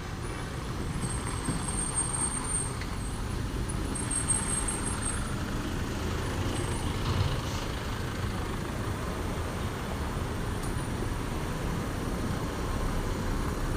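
A heavy truck engine running as it passes on the road, with steady traffic rumble.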